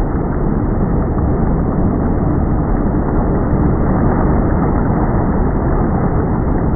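Motorboat running steadily: an unbroken, loud noise of engine and water with no strokes or pauses.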